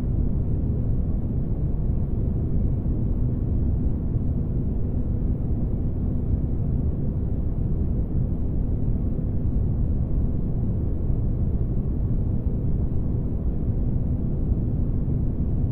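Spaceship-interior ambience for sleep: a steady, deep rumbling noise with a faint constant hum, unchanging throughout.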